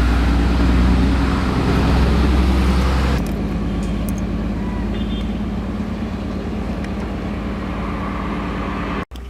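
Tractor engine running steadily, a low even drone that drops in loudness about three seconds in and cuts off abruptly just before the end.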